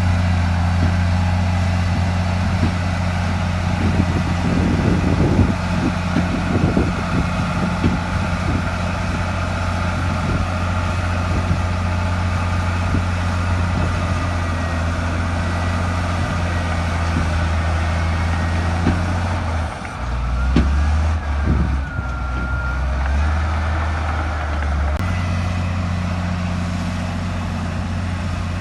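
Heavy diesel engine of earthmoving machinery running steadily, with a dense run of rattling knocks between about four and nine seconds in. About twenty seconds in, the engine note drops lower for several seconds and a faint squeal wavers up and down in pitch; then the engine returns to its earlier note.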